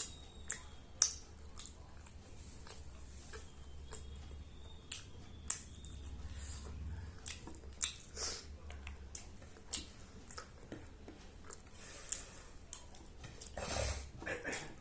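Close-miked eating of biryani: chewing with irregular wet mouth smacks and clicks, a denser run of smacks near the end.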